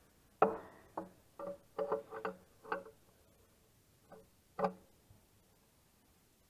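Irregular metallic clanks and knocks, about ten over four seconds, each ringing briefly: steel tools and wheel hardware striking metal while dual wheels are fitted.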